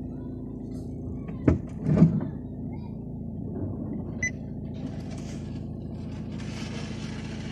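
Nissan Qashqai engine idling steadily just after starting, a low even hum. Two sharp knocks come about a second and a half and two seconds in, a short beep around four seconds, and a hiss sets in near the end.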